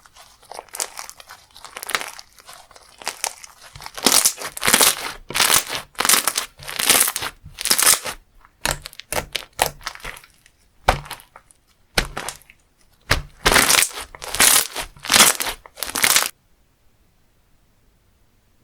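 Slime being squeezed and stretched by hand, making rapid crackling and crunching pops in bursts that grow louder about four seconds in and cut off suddenly near the end.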